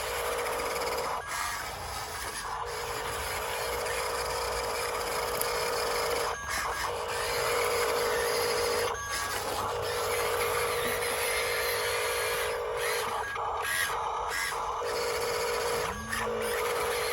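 Electric motor and gearbox of a radio-controlled dump truck whining steadily under drive, stopping briefly several times before picking up again.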